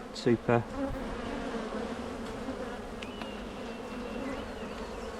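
Honey bees humming steadily from an open hive during an inspection, a dense buzz of many bees.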